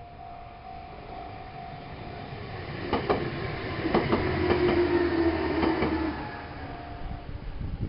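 Meitetsu electric train passing, its wheels clicking over rail joints with a steady hum, building to a peak through the middle and then fading.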